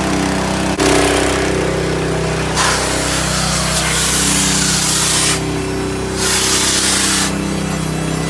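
Sandblaster hissing in bursts against a steel truck frame. It starts about a second in and stops briefly twice, over the steady drone of a running engine.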